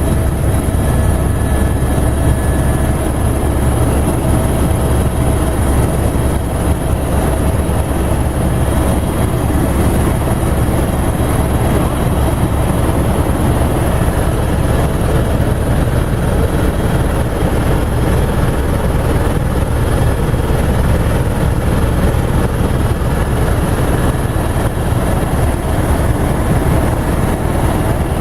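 Helicopter running steadily, a loud, deep, even drone of rotor and engine with no change in level.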